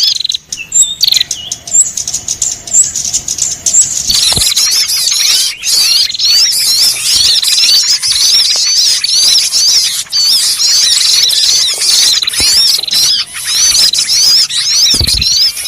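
A noisy crowd of small birds chirping and chattering together in quick, high, repeating calls. The calls are scattered for the first few seconds, then thicken into a dense, unbroken chorus. This is a bird-lure (pikat) recording of agitated small birds, played to draw other small birds in.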